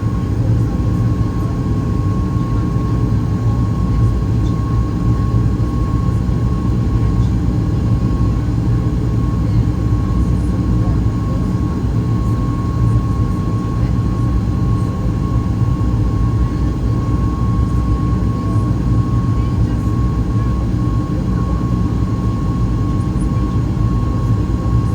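Steady cabin noise inside a Boeing 737 MAX 8 in flight after takeoff: a low rumble of its CFM LEAP-1B engines and the airflow, with a thin steady high hum running through it.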